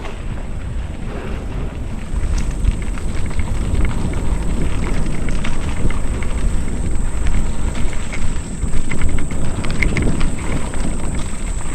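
Mountain bike riding a rough dirt trail: wind rumbling on the microphone, with tyre noise and the bike rattling and knocking over bumps.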